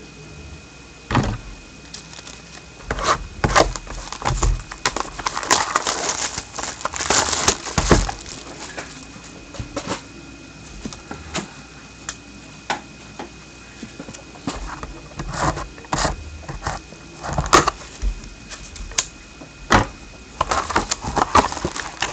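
A sealed box of hockey trading cards and a pack inside it being torn open by hand. Wrapper and cardboard crinkle and rip in irregular bursts.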